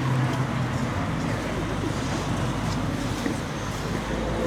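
City street ambience: steady traffic noise with faint voices of passers-by.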